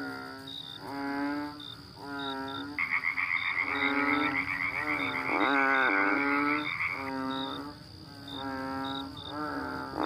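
Frogs croaking: repeated croaks about a second long, one after another, with a higher trilling call overlapping from about three to seven seconds in. Short high chirps sound faintly about twice a second behind them.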